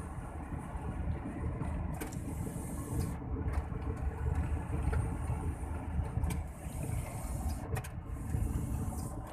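Mitsubishi Fuso turbo-diesel truck engine running while the truck is driven, a steady low rumble with a high hiss that comes and goes.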